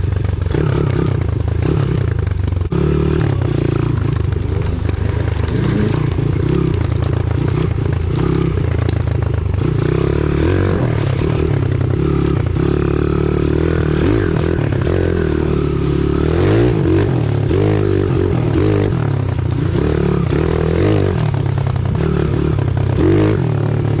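Pit bike engine running under varying throttle, its pitch rising and falling as the bike is ridden over rocks and mud, with frequent scrapes and knocks from the bike and its wheels hitting the ground.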